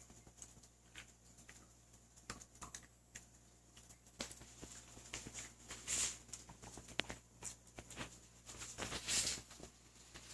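Bichon Frisé puppy chewing a dog biscuit: irregular small crunches and clicks, with louder crunching about six seconds in and again near nine seconds.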